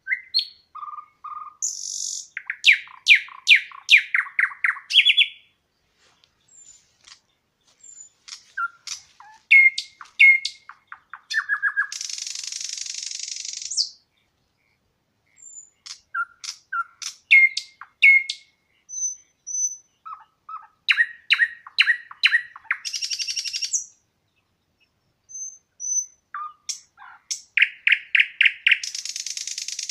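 Songbird singing in repeated phrases of quick, clear high notes, several of them ending in a long buzzy trill, with short silent gaps between phrases.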